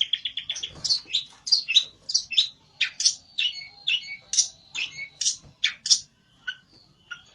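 A pelentet, a small Indonesian songbird, calling agitatedly in a rapid series of sharp, high chirps with a quick trill at the start, the excited calling of a bird stirred up to challenge a rival. A faint steady high tone sounds underneath from about halfway.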